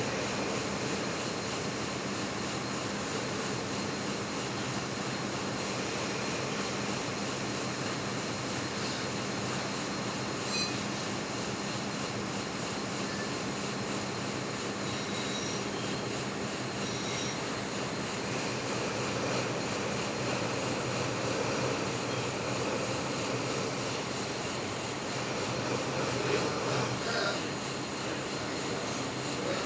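Metal lathe running steadily, a continuous mechanical hum with a dense hiss, and a few faint ticks about a third of the way in and near the end.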